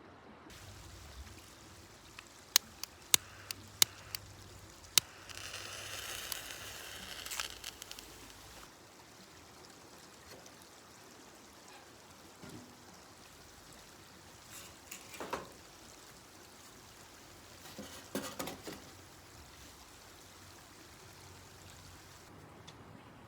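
Five sharp clicks, then about three seconds of liquid pouring, followed later by two short bursts of handling noise.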